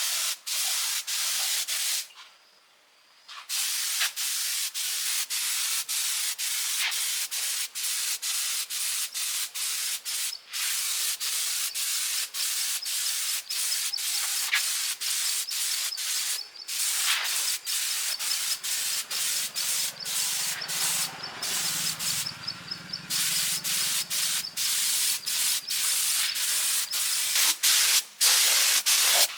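Steady hissing, rubbing noise of work on metal, broken by many brief cut-offs, with a pause of about a second and a half about two seconds in.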